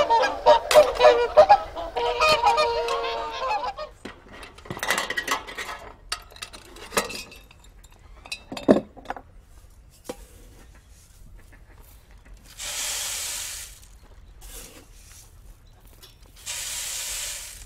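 A flock of geese honking, many calls overlapping in the first few seconds, then thinning to scattered single honks. Later come two separate rushes of noise, each about a second long.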